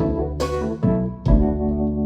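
Recorded blues music played back through Dynaudio Heritage Special loudspeakers: an instrumental passage between vocal lines, with a new chord or note struck about every half second.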